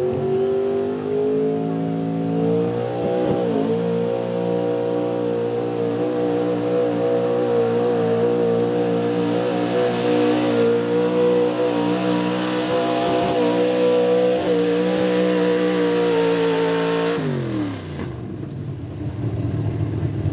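Outlaw 4x4 pulling truck's engine at full throttle dragging the weight-transfer sled. Its revs climb over the first few seconds, dip briefly about three and a half seconds in, then hold high and steady. About seventeen seconds in the revs fall away quickly as the driver lets off at the end of the pull.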